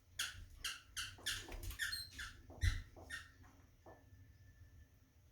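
A small bird chirping: about eight short, high, downward-sweeping notes in quick succession, stopping a little past halfway, with a low thump among them.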